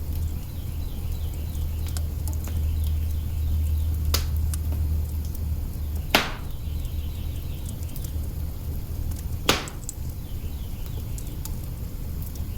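Wood fire crackling in an open hearth: small crackles over a steady low rumble, with sharp pops about four, six and nine and a half seconds in, the ones at six and nine and a half loudest.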